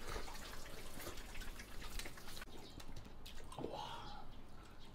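Several people eating braised pork off the bone: wet chewing and lip-smacking with many short, sharp clicks, thinning out about halfway through.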